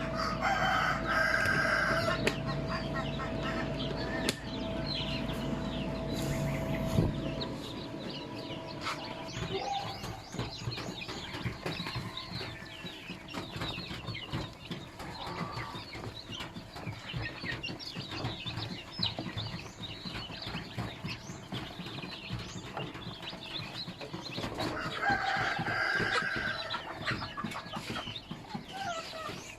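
Native chickens clucking and chirping, with a rooster crowing about a second in and again near the end. A low steady hum underneath stops about seven seconds in.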